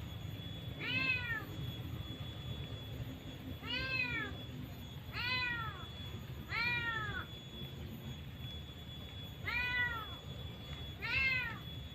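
A cat meowing six times, each meow a short call that rises and then falls in pitch.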